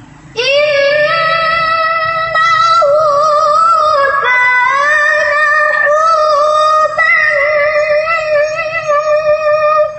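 A Quran reciter chanting in the melodic tilawah style, one high voice coming in sharply about half a second in and holding long, ornamented notes that waver and step in pitch.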